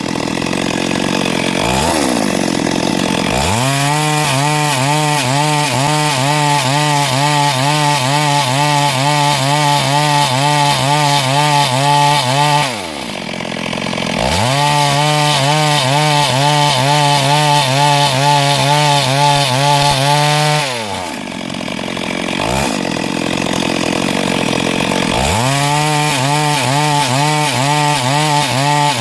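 Chainsaw engine idling, then revved to full throttle and held there for long cuts through wood. It drops back to idle near the middle and again about two-thirds in, and revs up once more near the end.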